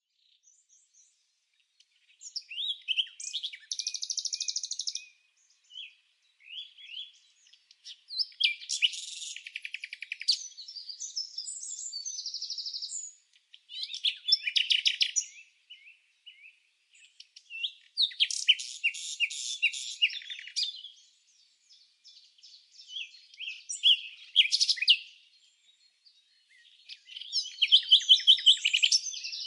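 A songbird singing in repeated phrases of fast chirps and trills, each lasting one to five seconds, with short silent pauses between them.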